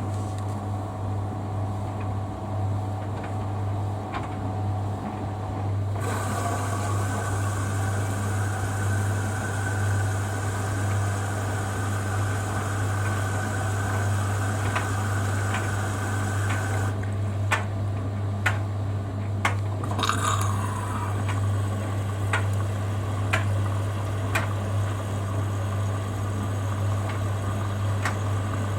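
Hoover Dynamic Next washer-dryer filling at the start of its cycle: water rushes in through the inlet valve from about six seconds in, stops briefly a little past the middle, then starts again, with occasional light clinks. A steady low hum runs underneath.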